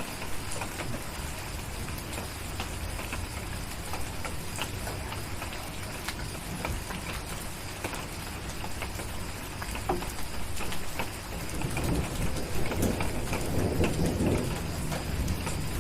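Steady rain with scattered sharp crackles of a fireplace fire, and a low rumble of distant thunder that swells about three-quarters of the way in.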